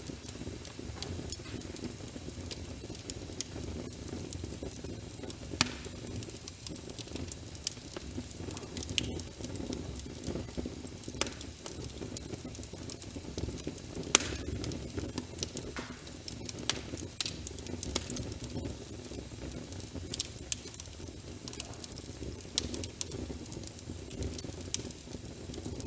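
Wood fire crackling in a fireplace, with frequent irregular sharp pops and snaps over a steady low rumble, layered with rain pattering.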